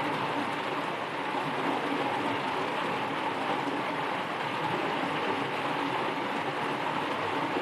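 Rain falling steadily, an even hiss with no pauses or changes.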